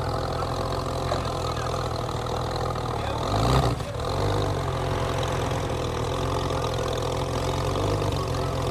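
Porsche 993 Turbo's air-cooled twin-turbo flat-six idling steadily, with one brief louder swell about three and a half seconds in.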